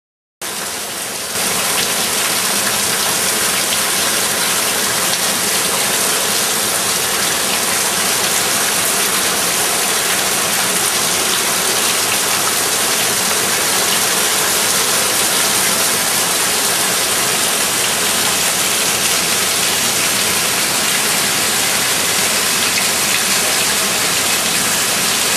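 Heavy rain pouring down in a steady, dense hiss, starting abruptly just after the beginning.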